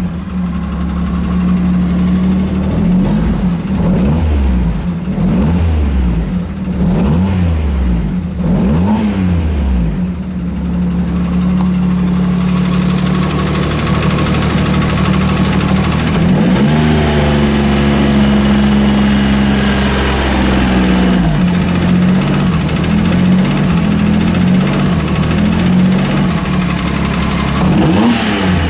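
Honda Beat's 656 cc three-cylinder engine running after being reinstalled, blipped up and back down about five times in the first ten seconds. It is then held at higher revs, rises once more and drops back about two-thirds of the way through.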